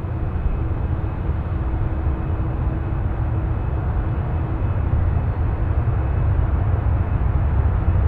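Jet airliner on approach to land, its engines a steady low rumble that slowly grows louder.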